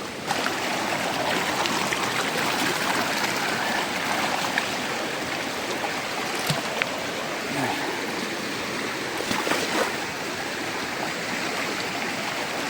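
A rocky river rushing steadily over stones, a full, even water noise, with a few faint clicks about halfway through.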